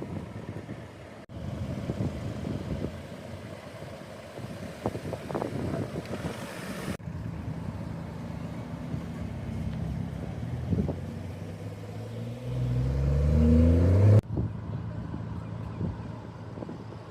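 Car engines running, with one engine revving up in a rising pull about twelve seconds in, the loudest sound here, which stops abruptly.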